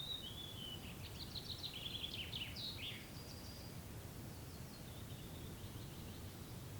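Songbirds singing in a forest clearing: a phrase of quick high chirps and short falling notes in the first three seconds, then fainter song, over a steady low background rumble.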